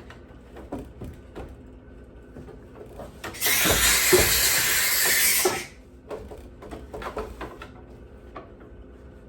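McCulloch steam cleaner's nozzle letting out a jet of steam: a loud hiss for about two seconds, starting about three seconds in and cutting off sharply. Light clicks and knocks from handling the tool come before and after it.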